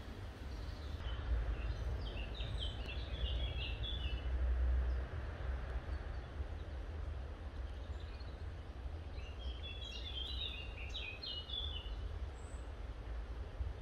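A bird singing two short bursts of quick chirps, the first about a second and a half in and the second around ten seconds in, over a steady low rumble.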